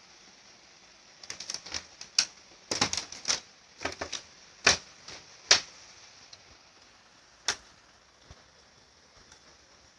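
A quick, irregular run of sharp knocks and taps, loudest near the middle, then one more knock a couple of seconds later.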